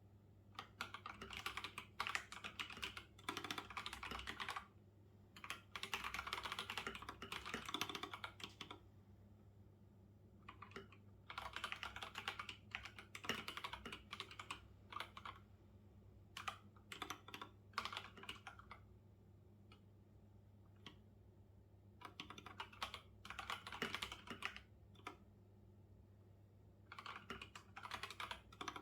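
Typing on a computer keyboard in bursts of rapid key clicks, broken by brief pauses of a second or two.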